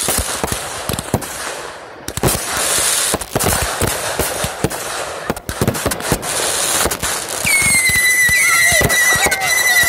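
Fireworks going off: a fast, irregular run of bangs and crackles over a sparkling hiss. About seven seconds in a shrill whistle starts and holds nearly steady in pitch for about two and a half seconds, typical of a whistling firework.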